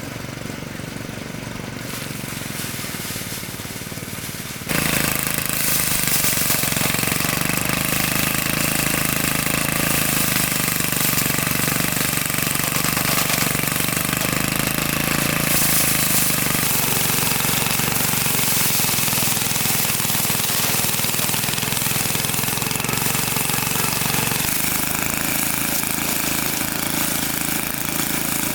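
A small engine-driven machine running steadily; it gets louder about five seconds in and keeps running evenly after that.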